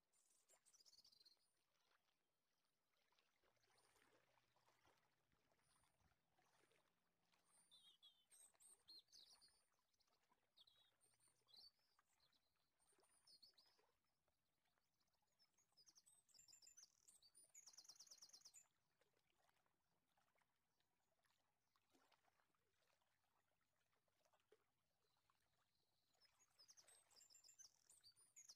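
Near silence, with faint birds chirping in the background and a couple of quick high trills.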